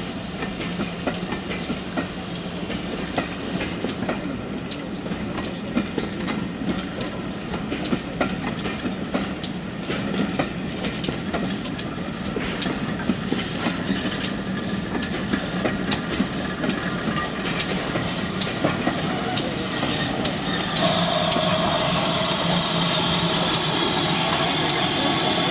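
Heritage railway train running, a steady rumble with irregular sharp clicks of the wheels passing over rail joints. Near the end the sound jumps louder and hissier.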